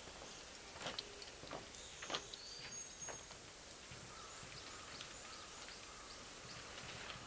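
Bonfire of firewood and Japanese cut charcoal crackling, with a few sharp pops from the charcoal bursting, the loudest about two seconds in, over a steady hiss. A few short high bird calls sound in the background.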